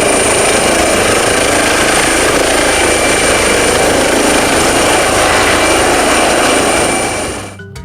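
Helicopter sound effect: steady rotor and engine noise with a thin high whine, cutting off abruptly near the end.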